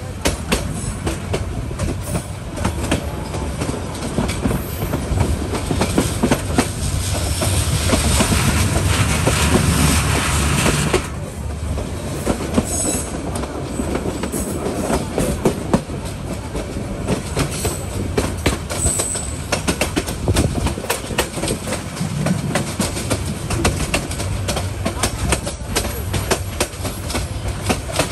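Bangladesh Railway intercity passenger train heard from an open coach doorway while running: a steady rumble of wheels on rail with rapid clicking over the rail joints. It grows louder for a few seconds, then drops off suddenly about eleven seconds in.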